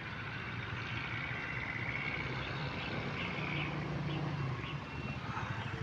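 Outdoor road-side ambience: a distant vehicle's engine hum swells for a couple of seconds in the middle and fades, with faint bird chirps over it.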